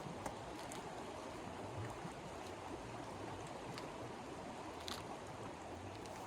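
Strong storm wind blowing in a steady rush, with scattered faint clicks throughout.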